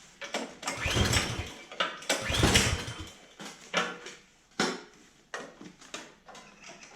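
Craftsman snowblower's small engine pulled over twice on its recoil starter, each pull a short cranking whir, then clicks and knocks of the rope and handle. It does not fire because the spark plug wire is disconnected.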